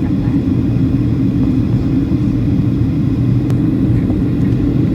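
Steady low rumble of a jet airliner heard from inside the cabin: engine and airflow noise.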